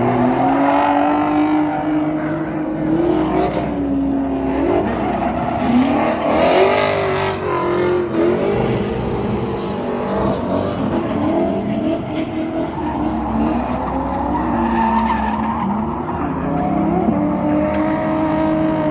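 Drift car engines revving up and down over and over, with tyres squealing.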